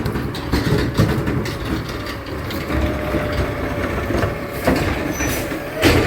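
Garbage truck working, its mechanism rattling and clanking, with a steady whine in the middle and a loud clank near the end.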